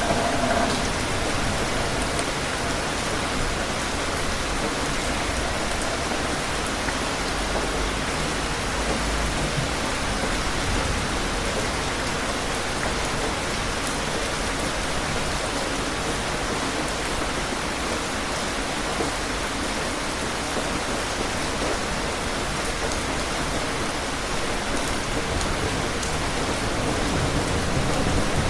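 Steady, heavy rain falling and pattering on surfaces, with a low rumble of thunder swelling near the end.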